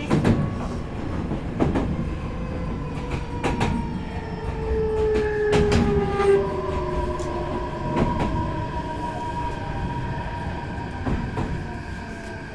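Meitetsu 4000 series electric train heard from inside the car: its inverter and traction motors whine in several tones that slowly fall in pitch as the train slows for a station, with wheel clicks over rail joints coming further apart over a low running rumble.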